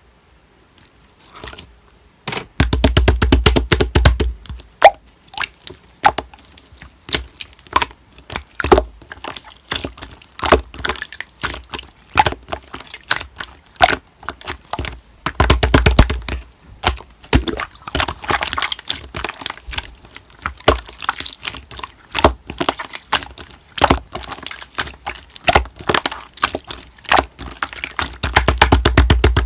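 Slime being squeezed and poked by hand: a dense stream of sticky pops and clicks starting about two seconds in, with three heavier squishing stretches.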